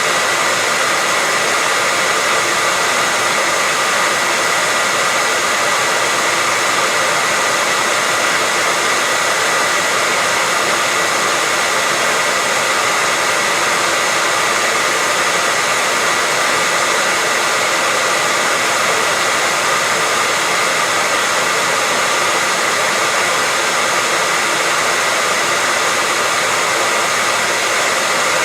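Hair dryer running steadily, a loud even blowing noise with a faint steady whine in it.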